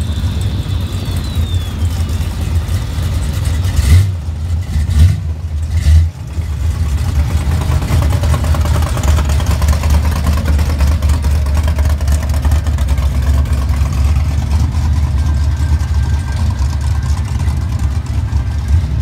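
Engines of classic Chevrolet street rods rumbling as the cars drive slowly past one after another. Three loud, short bursts come about four to six seconds in.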